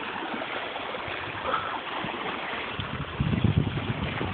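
Water rushing and lapping around a small inflatable rubber boat, a steady hiss, with a louder low rumble about three seconds in.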